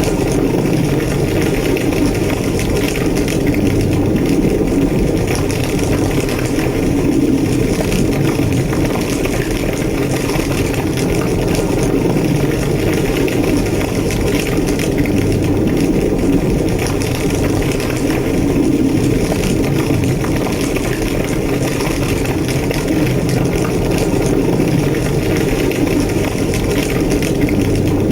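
Large blazing fire, as of a burning building, roaring steadily and evenly with scattered faint crackles.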